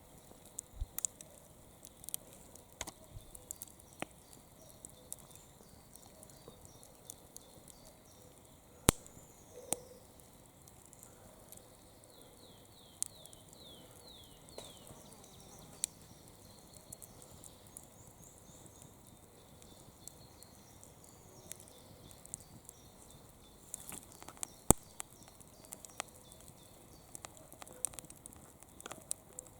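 Campfire crackling with irregular small snaps and two louder pops from the burning wood, and a few faint high whistles midway.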